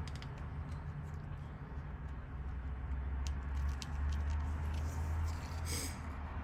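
A few small metallic clicks and ticks from a lock cylinder, its wafers and keys being handled, over a steady low hum.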